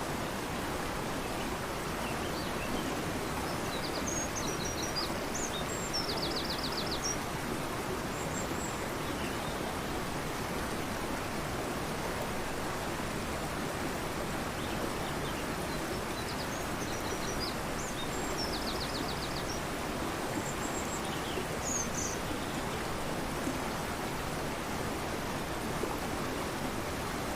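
Steady rush of a fast-flowing river, with small birds calling high above it: a cluster of chirps and a short rapid trill about five seconds in, and the same pattern again about twelve seconds later.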